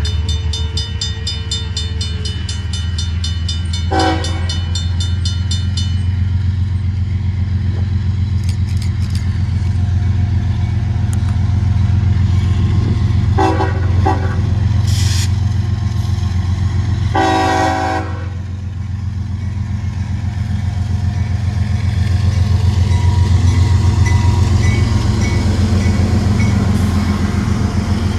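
Freight train rolling past with a steady low rumble of locomotives and cars, the horn giving short blasts about four seconds in, a double blast around thirteen to fourteen seconds and a longer one around seventeen seconds. A rapid, even ringing runs through the first six seconds, and a brief high squeal comes just after the double blast.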